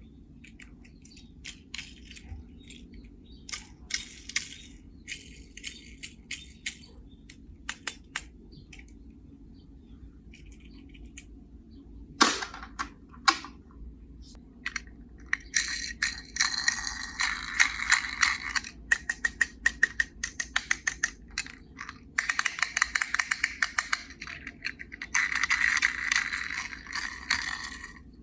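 Light clicking and rattling of small hard objects being handled, with two sharper knocks about halfway through, then quick dense runs of clicks to the end.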